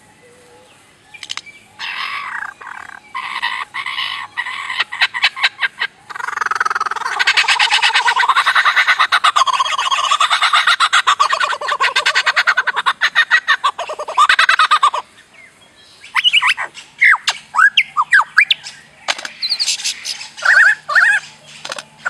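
Lesser florican calling: rapid pulsed rattling calls, running on in one long continuous stretch through the middle, then breaking into short separate calls near the end.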